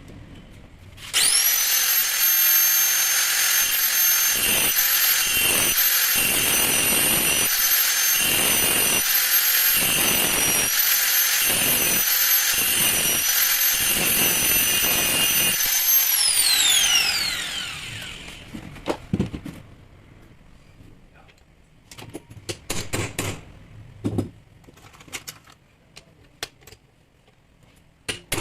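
Makita rotary hammer's electric motor starting suddenly and running with a loud, steady high whine for about fifteen seconds, with a regular pulsing underneath. It is then released and spins down with a falling whine. A few light clicks and knocks of handling follow near the end.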